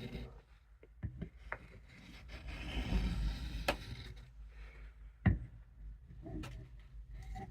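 Knife blade being honed on an oil-lubricated Arkansas stone: a rubbing, scraping stroke that swells for a couple of seconds, with several sharp clicks and knocks, the loudest a little over five seconds in.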